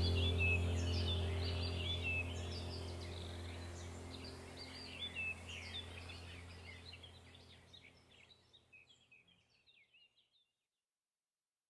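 Many small birds chirping and twittering over a steady low hum. The whole sound fades out gradually to silence about three-quarters of the way through.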